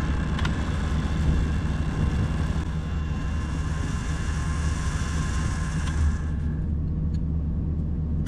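Truck-mounted winch running with a steady whine over the truck's idling engine; the winch cuts off about six seconds in, leaving the engine idling.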